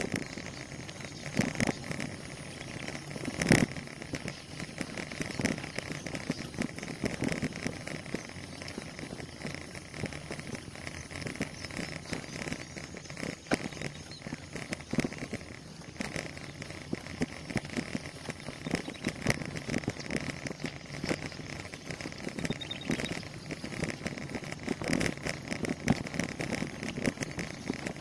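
Bicycle being ridden: tyres rolling over the road surface and the bike rattling with many small clicks, with a sharper knock about three and a half seconds in.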